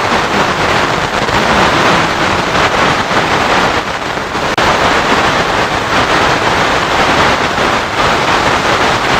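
Loud, steady FM radio static: an even hiss of noise with no programme audio, cutting in and out abruptly as if the receiver is switched to and from a noise-filled frequency.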